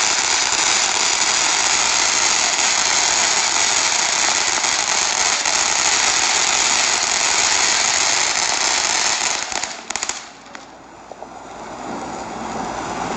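Ground fireworks going off in a dense, continuous crackle and hiss that lasts about ten seconds, then stops with a few last cracks, leaving a much quieter background.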